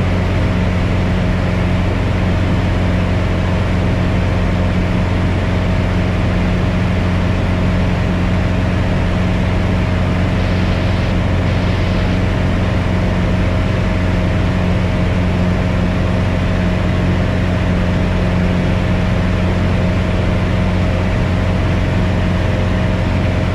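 Newly overhauled four-cylinder Lycoming O-360 of a Piper Cherokee 180 heard from inside the cabin, running steadily at full cruise power for engine break-in. It makes an even, unchanging drone with a deep hum.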